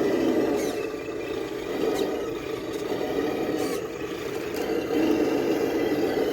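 Electric motor and geared drivetrain of a Traxxas TRX6 6x6 RC crawler whining as it drives, the whine swelling and easing with the throttle. A few faint clicks come from the truck working over the course.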